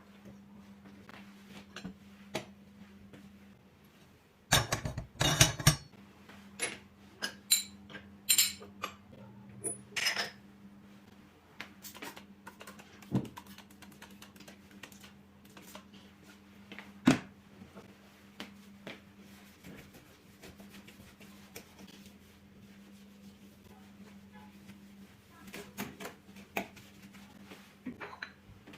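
Household objects being handled: scattered clicks and knocks, with a short burst of clatter about five seconds in and single sharper knocks later. A steady low hum runs underneath.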